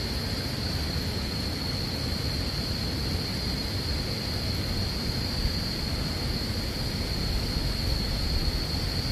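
Wind buffeting the microphone in a fluttering low rumble, over a steady high-pitched drone of insects.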